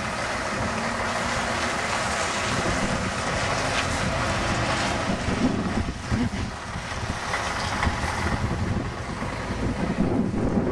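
Bonneted Scania 470 truck's diesel engine running, with wind buffeting the microphone.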